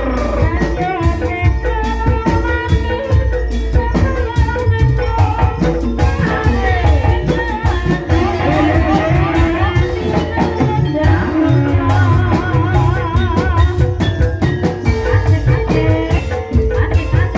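Live ebeg gamelan music: drums and pitched percussion keep a steady beat under a sung vocal line with a wavering vibrato.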